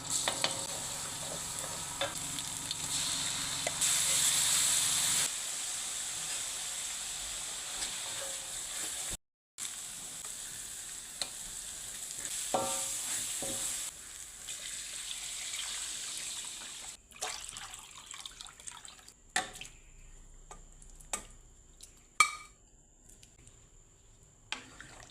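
Food frying in hot oil, a steady sizzle with a brief break partway through. About two-thirds of the way in the sizzle stops, giving way to separate clicks and clinks of kitchen utensils.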